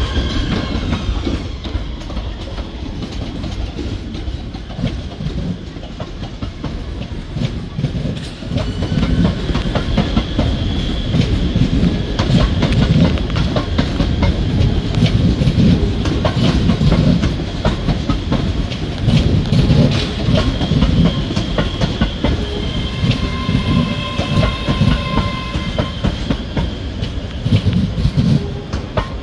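ScotRail Class 380 electric multiple unit running past over station pointwork: steady wheel clatter with many sharp clicks over rail joints and crossings, on a low rumble. High-pitched whines come and go, most clearly near the end.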